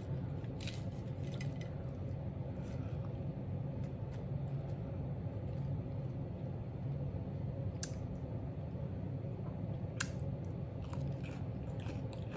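Close-miked chewing of a mouthful of food, with a few short sharp clicks, the sharpest about ten seconds in, over a steady low hum.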